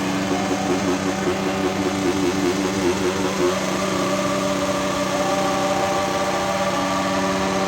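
An engine running at idle, steady, its pitch shifting a little about three and a half seconds in.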